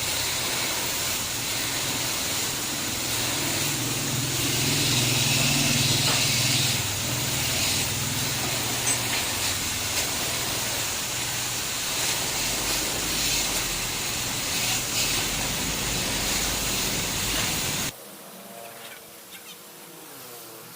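A steady, loud hiss with a low rumble under it, like gas or spray released under pressure. It cuts off abruptly near the end.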